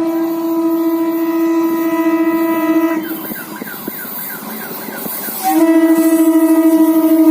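Horn of an Indian Railways EMU local train sounding two long steady blasts. The first runs about three seconds, then the horn breaks for a quieter stretch of train noise, and a second, louder blast starts about five and a half seconds in.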